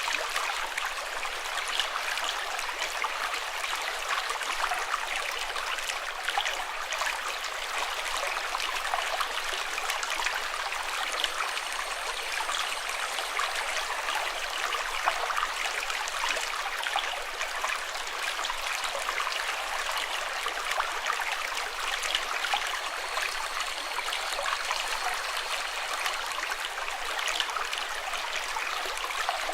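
Water flowing steadily in a stream, a continuous rushing and trickling with small splashes throughout.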